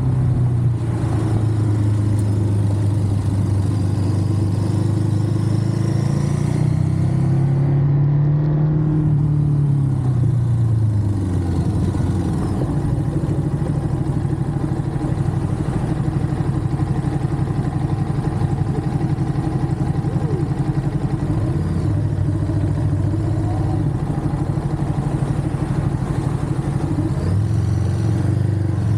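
Ducati Monster's V-twin engine running under way; its pitch climbs a few seconds in, drops away about ten seconds in as the rider comes off the throttle, runs steadily, then climbs again near the end.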